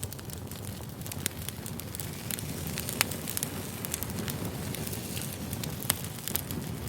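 Campfire crackling: a steady low rush of burning wood with frequent sharp pops and snaps, two louder snaps about three and six seconds in.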